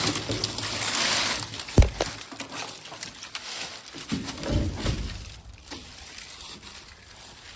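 Rustling and handling noise, with one sharp knock about two seconds in and a duller thump around the middle, as the cab door of an old Ford F800 truck is worked open against branches.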